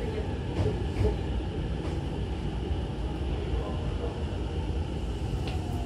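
Steady low rumble of a Hankyu commuter train heard from inside the car by the doors, with a few faint clicks.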